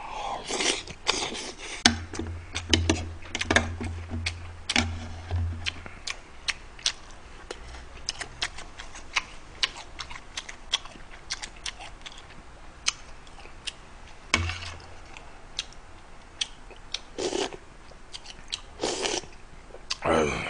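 A person chewing a mouthful of beef noodle soup and fried rice into a close microphone, with many small sharp wet mouth clicks all through and a few longer breathy swells in the second half.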